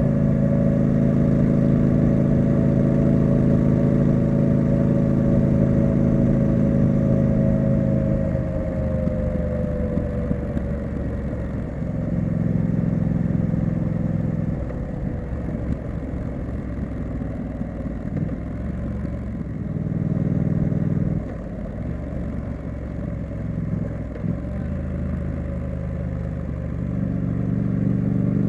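Triumph Street Scrambler's parallel-twin engine and exhaust while riding, with the throttle opened and rolled off several times. The exhaust is strong for the first several seconds, then swells again twice and drops off sharply about two-thirds of the way through. It builds back up near the end.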